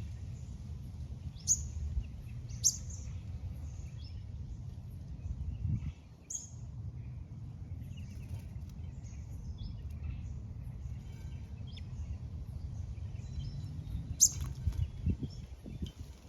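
Small birds chirping at a bird bath: short, sharp high calls, a few loud ones among many faint ones, over a steady low rumble.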